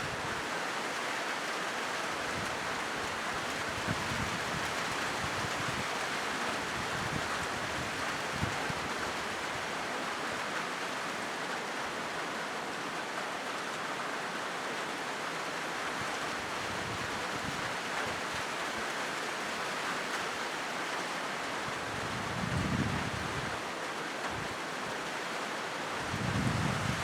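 Steady rain drumming on a corrugated zinc roof, an even hiss of countless drops, with a couple of brief low rumbles in the last few seconds.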